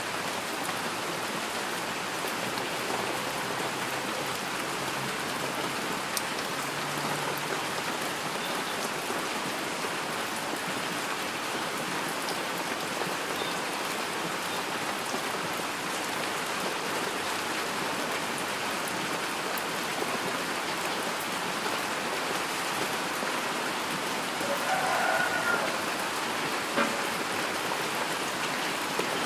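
Steady rain falling, an even hiss with scattered sharp taps of individual drops. A brief faint tone rises over it about 25 seconds in.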